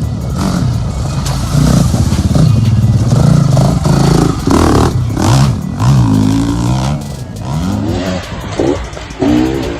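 Off-road vehicle engine running hard and revving, its pitch rising and falling several times in the second half.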